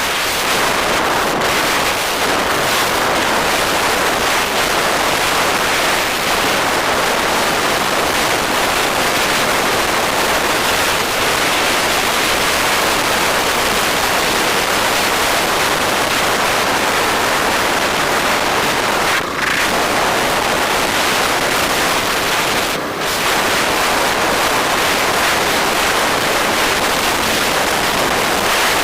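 Steady, loud wind rush on the microphone of a camera riding on a moving bike, an even hiss with no clear tones. It dips briefly twice, about two thirds of the way through and a few seconds later.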